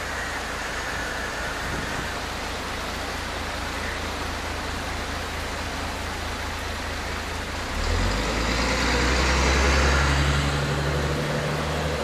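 Steady rain hiss. About eight seconds in, a motor vehicle passes, its low engine hum and tyre hiss swelling for about three seconds and then fading.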